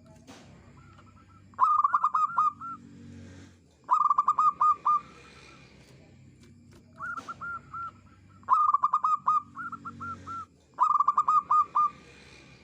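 Zebra dove (perkutut) cooing: about five quick phrases of rapid, rippling staccato coos, each about a second long, a couple of them fainter, with short pauses between.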